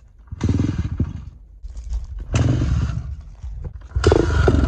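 Truck engine revved hard three times, each rev rising to a loud raspy blast and dropping back, as if to blow out the rainwater that had collected in it.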